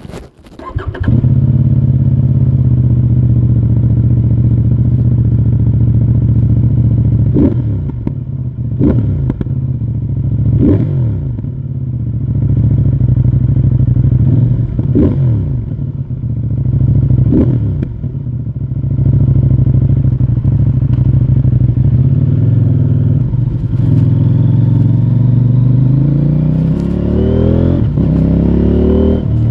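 CFMoto 800NK Advanced's parallel-twin engine on its stock exhaust starts up and idles, with about five quick throttle blips that rise and fall in pitch. Near the end it revs up steadily as the bike pulls away.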